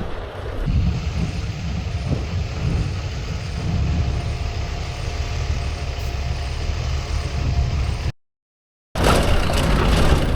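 Steady low rumble of a motor vehicle's engine running, cut off abruptly by a brief gap of silence near the end.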